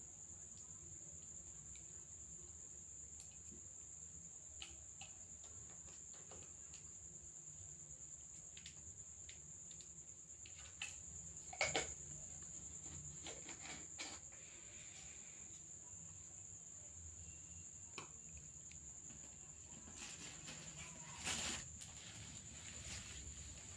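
A faint, steady high-pitched whine throughout, with scattered small clicks and two brief louder knocks, about twelve and twenty-one seconds in.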